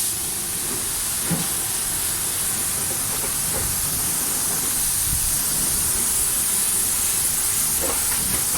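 High-pressure water spray from a pressure washer wand hosing down a car, a constant loud hiss.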